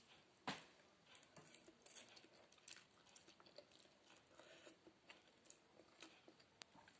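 Faint close-up chewing of a mouthful of soft noodle soup (spaghetti-noodle sopas), with small wet mouth clicks throughout and one sharper click about half a second in.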